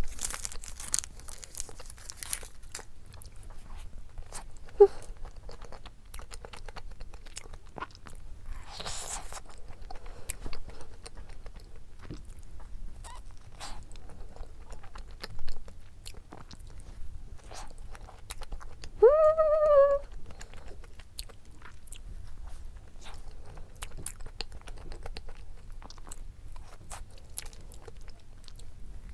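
Close-miked chewing and biting of a soft cream-filled doughnut: many small wet mouth clicks and smacks, with a few louder ones. About nineteen seconds in comes a short hummed "mmm" of the voice.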